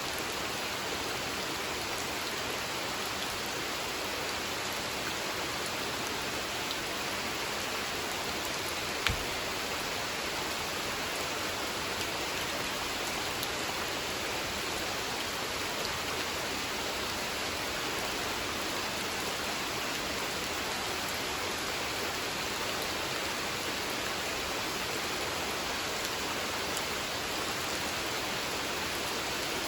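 Steady rain falling on a pond, an even, dense hiss of drops on water. One sharp, louder tick about nine seconds in.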